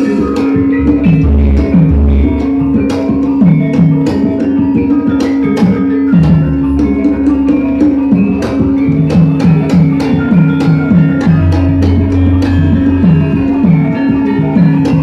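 Javanese gamelan music for wayang, with a steady ringing metallophone tone, busy drum strokes that fall in pitch, sharp percussive strikes, and deep gong booms now and then.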